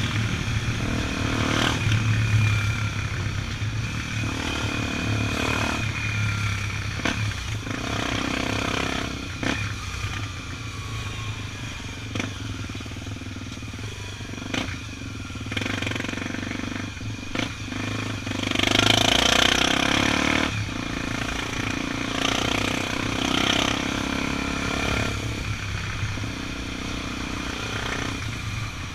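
Honda XR 250 Tornado's single-cylinder four-stroke engine running steadily while riding, under rushing noise that swells and fades, loudest about two-thirds of the way through.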